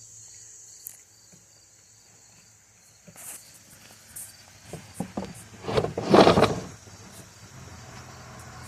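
Hand tools and plastic chainsaw housing parts being handled during disassembly: scattered clicks and knocks, with a louder scraping rattle about six seconds in. A steady high-pitched hum in the background stops about three seconds in.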